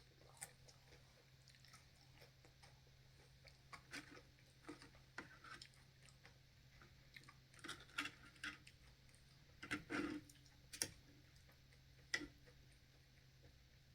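Quiet chewing and mouth sounds of someone eating, with scattered soft clicks and smacks at uneven intervals over a faint steady low hum.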